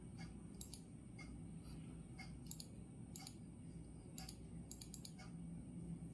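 Clock ticking about twice a second over a steady low room hum, with a few louder irregular clicks among the ticks.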